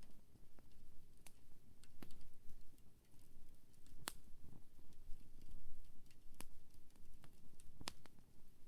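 Wood fire crackling: irregular sharp pops and snaps, a louder pop about four seconds in and another near the end, over a low rumble.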